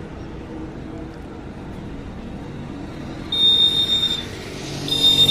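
Road traffic, with vehicle engines running steadily. Past the halfway point a shrill, high, steady tone sounds twice, briefly the first time and again near the end, as a louder engine comes up.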